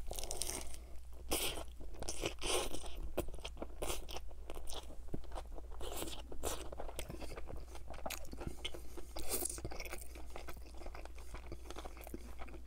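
Close-miked biting into a Burger King Whopper and chewing it: a dense, irregular, wet crunching of bun, lettuce and pickles. The crunching is loudest in the first few seconds and then settles into steady chewing.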